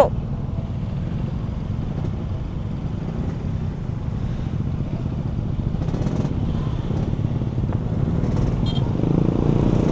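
Yamaha RX-King's two-stroke single-cylinder engine running steadily under way, a low drone that grows a little louder near the end.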